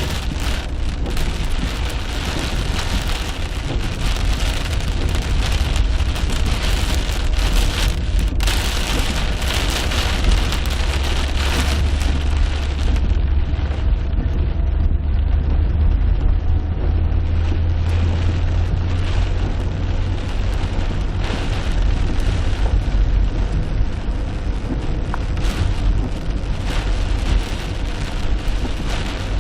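Heavy rain falling in a thunderstorm: a dense steady hiss of rain with many sharp drop hits, over a constant low rumble.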